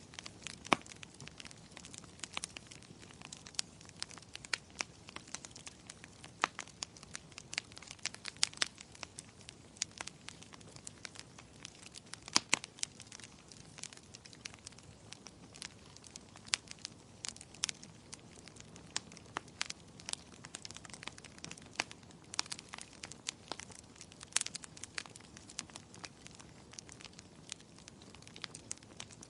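Wood fire crackling in a fireplace: irregular sharp pops and snaps, a few a second and some much louder than others, over a soft, steady hiss of burning.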